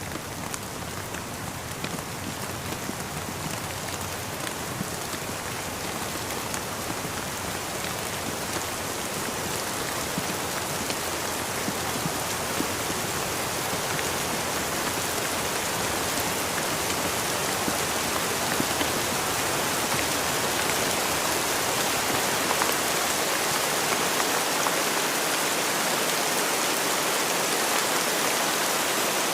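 Steady rain falling, with the taps of single drops showing through the hiss; it grows gradually louder.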